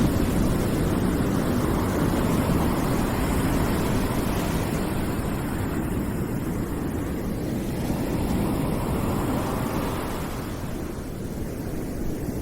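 Steady rushing white noise, heaviest in the low range, that swells and eases slowly like surf and dips a little near the end.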